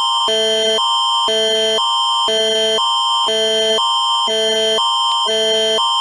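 The Canadian Alert Ready attention signal, which announces an emergency alert broadcast. Two tone chords alternate about twice a second under a steady high tone.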